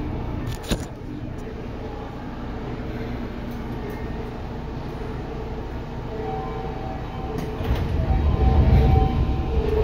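Inside a Seibu 2000 series electric train car: a steady low rumble with a sharp click under a second in, and a louder low rumble setting in about eight seconds in.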